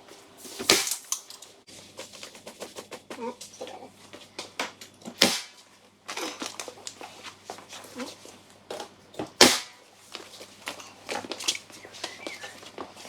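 Nail gun firing three sharp shots about four seconds apart as shiplap boards are tacked up, with lighter knocks and clicks of board handling in between.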